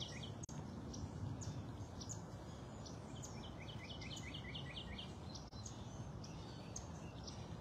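A small bird chirping a quick run of short high notes about three seconds in, faint over a steady low outdoor background hum.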